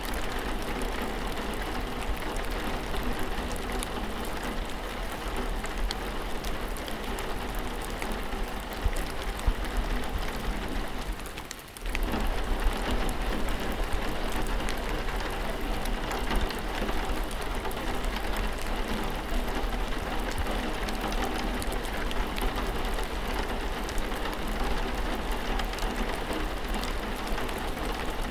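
Steady rain falling, an even dense patter with scattered sharper drop ticks. The sound dips briefly about twelve seconds in and picks straight back up.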